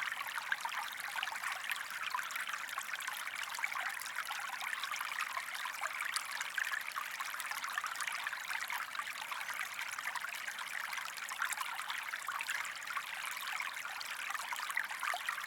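Steady flowing-water sound of a stream, trickling and splashing evenly, used as a background track.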